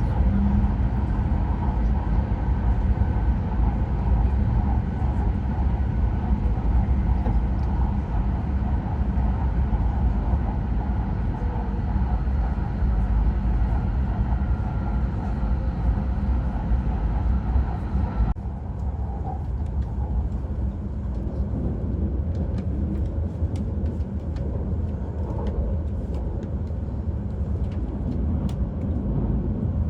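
Steady running noise of a Hayabusa Shinkansen train at speed, heard from inside the passenger cabin: a low rumble with a higher hiss on top. About eighteen seconds in, the hiss drops away suddenly, leaving a quieter low rumble with light ticks.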